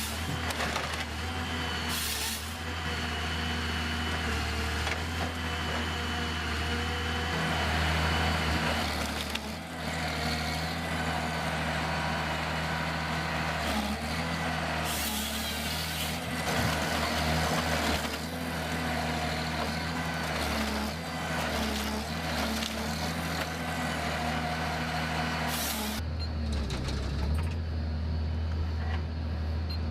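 Heavy diesel machine engine running steadily, with several short loud hissing bursts over it.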